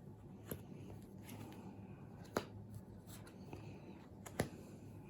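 Playing cards being laid down on a tabletop one after another, giving faint taps and light slides, with three sharper clicks about half a second, two and a half and four and a half seconds in.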